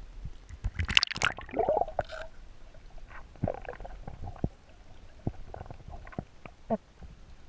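Water gurgling and bubbling close to the microphone, strongest about a second in, followed by scattered sharp clicks and small gurgles.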